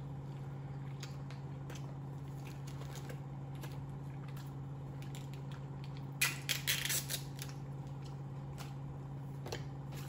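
A person chewing a mouthful of burger, with soft wet clicks, over a steady low hum. About six seconds in there is a brief burst of crisp crackling.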